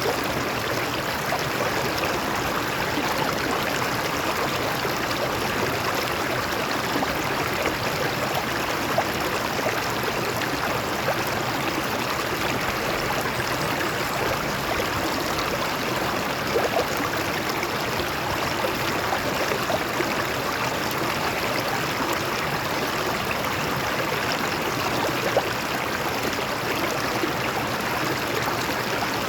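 Stream water flowing and splashing over rocks: a steady rushing with small scattered splashes.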